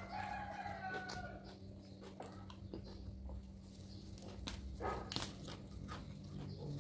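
Close-mouthed chewing and crunching of raw vegetables, with scattered wet mouth clicks and smacks. A steady low hum runs underneath.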